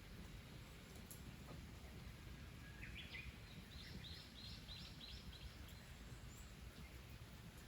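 A small bird sings one short phrase of about eight quick chirps, stepping up in pitch and then level, over a faint low outdoor rumble.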